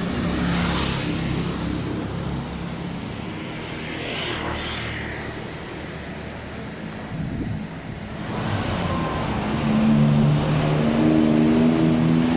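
Street traffic: motor vehicle engines passing. One engine grows louder from about two-thirds of the way through and is loudest near the end.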